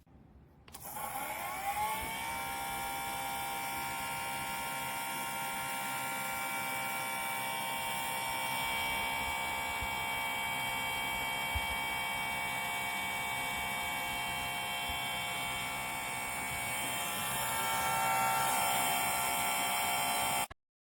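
Fan motor of a mini PTC ceramic space heater starting up, its whine rising in pitch over about a second, then running with a steady whir. It cuts off suddenly near the end.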